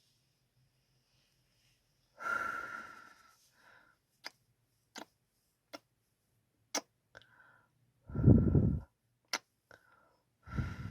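Close-miked ASMR kissing sounds: sharp single lip smacks about once a second, between three longer, louder kisses with a low rumble, the loudest about eight seconds in.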